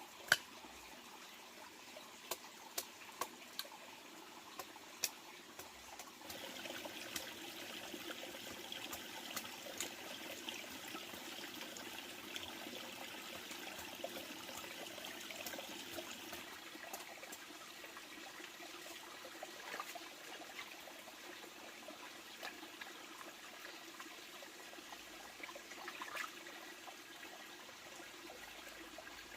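Water trickling, with scattered small clicks; it gets louder about six seconds in and eases off again after about sixteen seconds.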